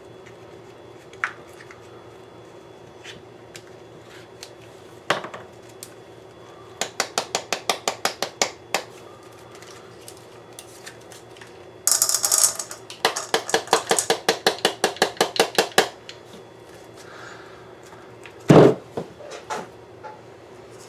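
Rapid, evenly spaced clicking and rattling of small hard objects in two runs of about ten clicks a second, with scattered single clicks, then one heavy thud near the end.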